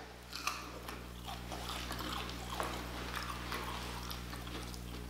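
Quiet close-up chewing of a Hot Cheeto-crusted fried octopus piece: many small crunches and wet mouth clicks, over a steady low electrical hum.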